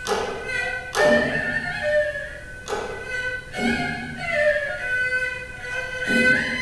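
Haegeum, the Korean two-string vertical fiddle, playing the fast section of a sanjo with sliding, bent notes. The melody is broken by several sharp strokes.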